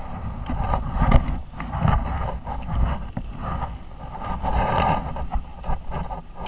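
Suzuki RM-Z 250 four-stroke single-cylinder motocross bike running on track, its engine note surging and dropping, heavily mixed with wind buffeting on the onboard camera microphone.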